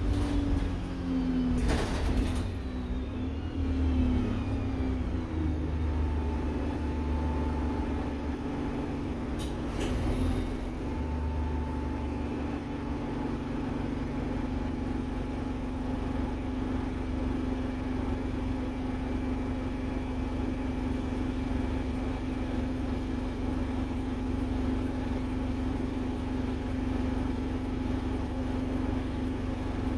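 Alexander Dennis Enviro 200 single-deck bus engine, its pitch falling over the first few seconds as the bus slows, then settling into a steady hum with one level tone. Two short sharp noises come about two seconds in and near ten seconds.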